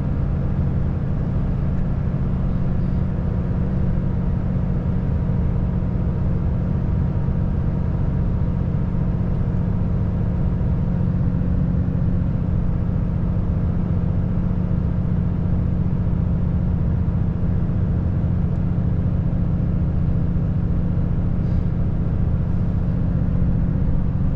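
Volvo FH540 truck's 13-litre straight-six diesel engine running steadily at even revs while driving.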